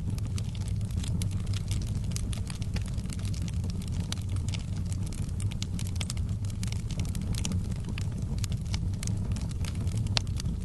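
Wood fire in a fireplace crackling, with many small irregular pops over a steady low rumble of the flames, and one sharper pop near the end.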